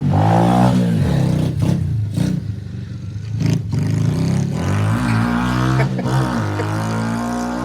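Dirt bike engine being ridden and revved, its pitch rising and falling several times with short drops in between, then running more steadily in the second half.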